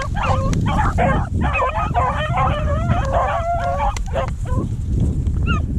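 Several beagles baying and yelping in chorus as they run a rabbit's trail, the calls overlapping continuously.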